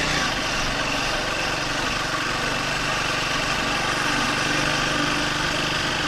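Triumph Speed 400's single-cylinder engine running at a steady, near-constant speed over a steady rushing noise.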